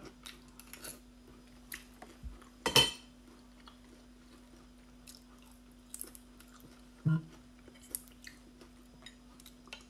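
Close-up mouth sounds of someone eating raw oysters topped with crispy fried onions: soft chewing and small wet clicks, with one sharp clack about three seconds in and a brief hummed 'mm' about seven seconds in, over a faint steady hum.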